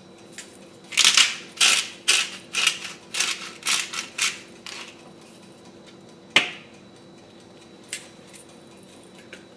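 Pepper mill grinding black pepper in about ten quick rasping twists, followed a little later by a single sharp knock.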